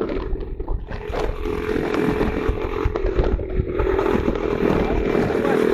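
Motorcycle engine running steadily, with a few knocks at the start; its note firms up and grows a little louder after about a second.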